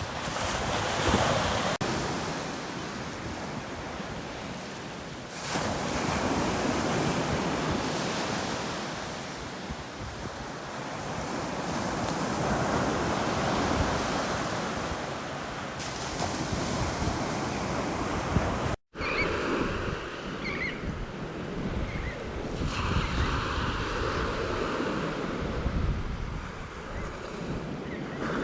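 Sea waves breaking and washing up a beach, rising and falling in slow swells. A brief dropout about two-thirds of the way through, after which the surf sounds duller.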